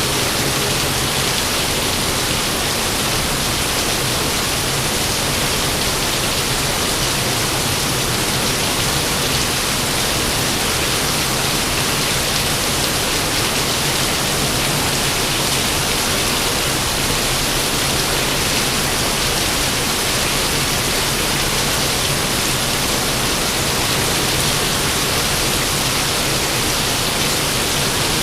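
Steady heavy rain falling, a dense, even hiss that does not change.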